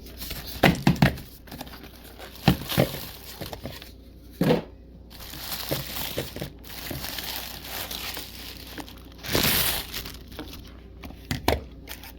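Packaging crinkling and rustling, with scattered knocks and clicks, as a Dash mini waffle maker is unboxed by hand; a longer rustle comes about nine seconds in.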